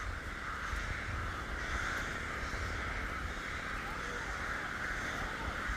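Fast-flowing river water rushing steadily, with a low rumble of wind buffeting the microphone.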